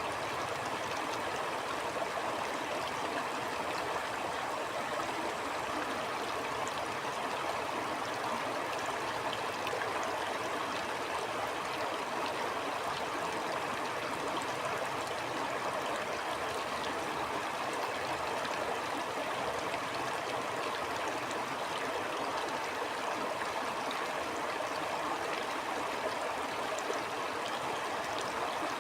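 A stream flowing steadily over rocks, a continuous babbling rush of water.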